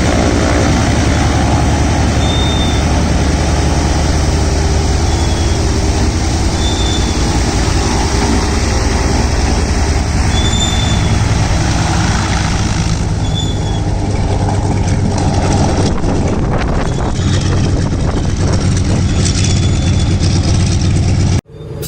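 Antonov An-2's nine-cylinder radial engine running steadily with a fast, rough pulsing beat. The sound cuts off suddenly near the end.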